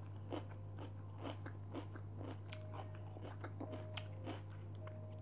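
A person chewing food close to a clip-on microphone: many small, irregular wet clicks and faint crunches.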